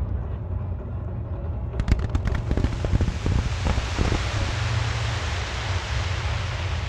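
Fireworks display: low rolling rumble of shell bursts, then, about two seconds in, a quick string of sharp pops followed by a dense crackling hiss.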